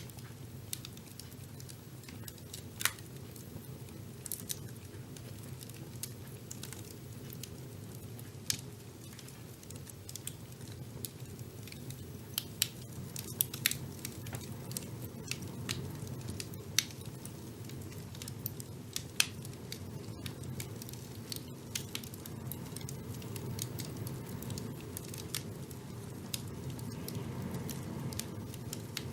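Wood fire burning in a fireplace: a steady low rumble of flames with irregular crackles and sharp pops from the logs, a few louder snaps scattered through.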